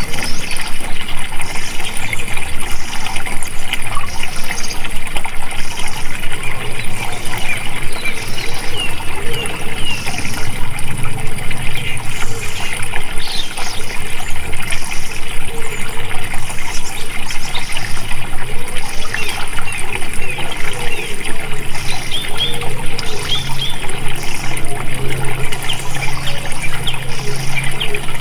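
Running water flowing and trickling steadily, like a small stream over stones.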